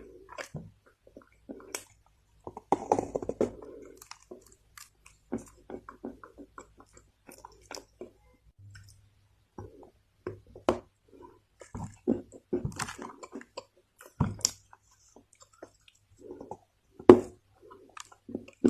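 A person biting and chewing chunks of dried Chinese loess clay: irregular soft crunches and crackles. A denser run of crunching comes about three seconds in, and a few sharper snaps follow later.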